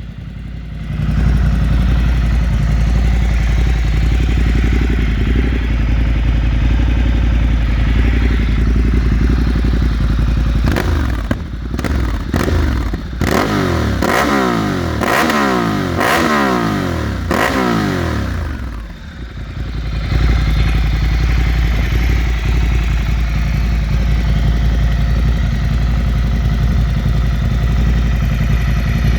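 Ducati Multistrada 1200 S's L-twin idling through a de-catted Leovince mid pipe and Termignoni carbon silencer, with about half a dozen quick throttle blips in the middle that rise and fall sharply before it settles back to idle. The catalytic converter has been removed, and the engine is not yet remapped.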